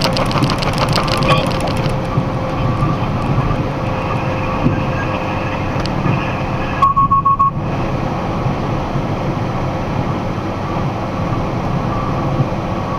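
Steady engine and road drone heard inside a moving box truck's cab, with rattling clicks in the first couple of seconds. About seven seconds in, the drone drops out briefly while a quick run of short high beeps sounds.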